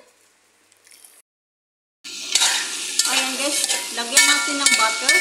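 Pieces of desert truffle (fagaa) sizzling in a pan while being stirred with a spatula, with repeated small scraping clicks. The sizzling starts abruptly about two seconds in, after a short silence.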